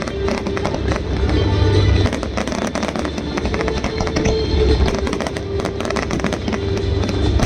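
Aerial fireworks going off in a rapid series of crackles and bangs over loud music with heavy bass.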